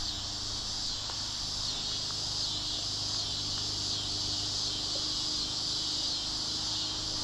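Steady chorus of insects, a continuous high-pitched buzz that doesn't change, with a faint low hum underneath.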